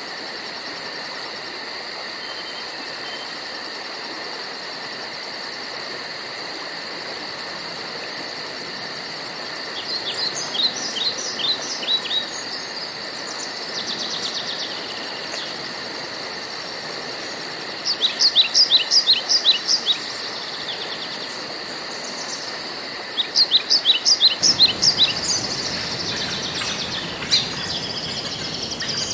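Woodland ambience: a steady, high, rapidly pulsing insect chirr, with a songbird singing three quick phrases of short falling notes, about ten seconds in, around eighteen seconds and again around twenty-three seconds.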